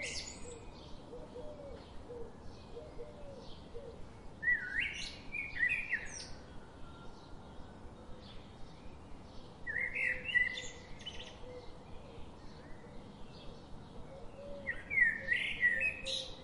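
Forest ambience of songbirds: one bird repeats a short, loud song phrase about every five seconds, three times, over faint scattered chirps from other birds.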